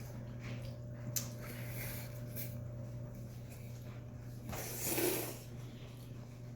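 Ramen noodles being slurped: short sucking, slurping noises, with one longer, louder slurp about five seconds in, over a steady low hum.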